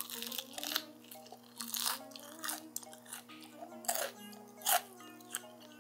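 Crisp crunching of boneless fried chicken being bitten and chewed, a string of short crunches about every half second to a second, the loudest two near the end. Light background music plays underneath.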